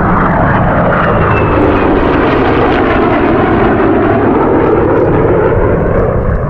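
Loud, continuous engine noise from an aircraft flying past at an air show. The main band of the noise sinks lower in the middle of the pass and eases off slightly near the end.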